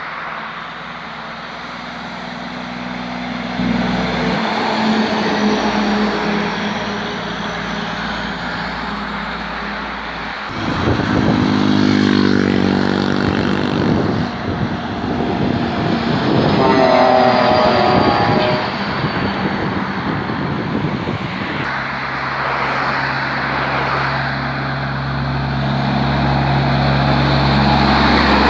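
Heavy trucks passing on the road, their engines running and climbing in pitch as they pull away, a few separate passes one after another.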